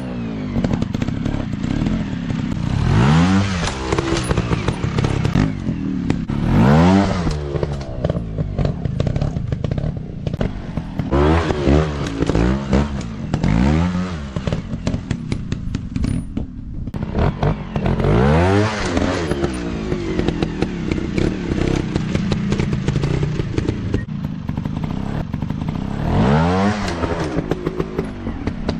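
Dirt bike engine revving up and falling back again and again as the bike is ridden off-road, with about eight sharp rises in pitch and a steadier stretch of running in between.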